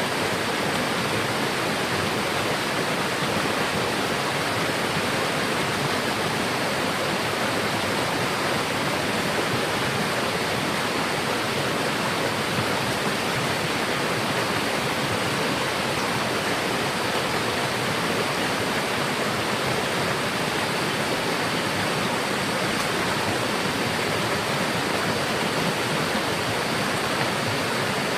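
Steady, even rushing of flowing water, with no breaks or changes.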